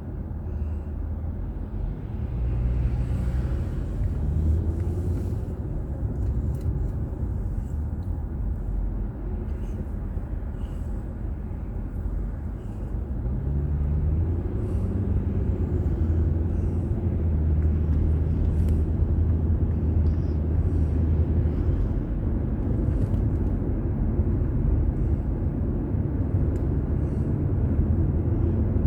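Car driving, heard from inside the cabin: a steady low drone of engine and road noise whose pitch shifts now and then as the speed changes.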